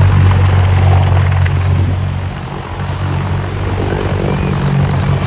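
Three-engine CH-53E Super Stallion heavy-lift helicopter flying past, its main rotor beating loudly over a broad engine and rotor rush. The sound eases slightly about halfway through, then swells again near the end.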